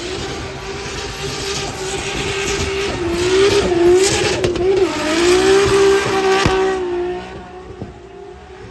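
A drift car's engine held at high revs with brief dips, over the screech of sliding tyres; the sound grows louder in the middle and fades away about seven seconds in.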